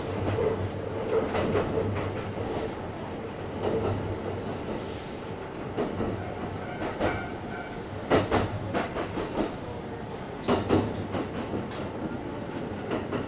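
Kintetsu 1031-series electric commuter train running on the rails, heard from inside the car as it slows for a station. Under a steady low hum come short high wheel squeals about five and seven seconds in, then clusters of rail-joint clicks.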